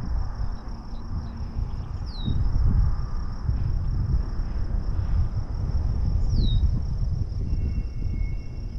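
Steady high chirring of crickets, with a gusting low rumble of wind on the microphone. Two short falling whistles come about two and six seconds in.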